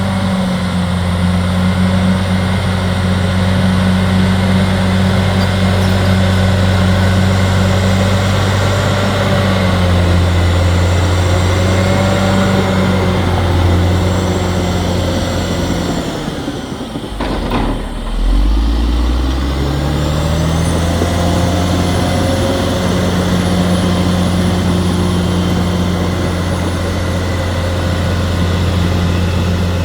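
Caterpillar D6R XL bulldozer's diesel engine running steadily at high revs, its pitch dropping sharply a little past halfway through and then climbing back up to the same steady speed.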